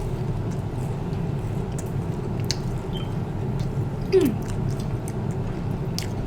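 Close-up chewing of a spicy chicken nugget, with small scattered mouth clicks over a steady low background hum. A brief falling tone comes about four seconds in.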